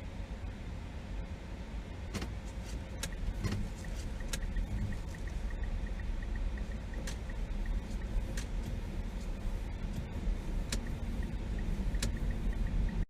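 Car cabin noise picked up by a dashcam: a steady low rumble of engine and road, with a few sharp clicks. From about five seconds in there is a quick, even ticking, about three ticks a second.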